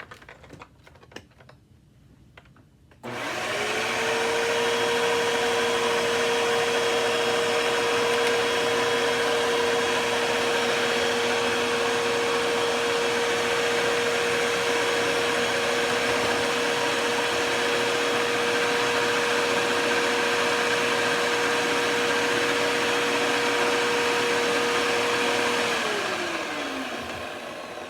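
Hoover WindTunnel 2 upright vacuum cleaner switched on about three seconds in, its motor coming up to speed and running with a steady tone over rushing air, then switched off near the end and winding down with a falling pitch. It is running with no suction at the hose, clogged somewhere in the air path.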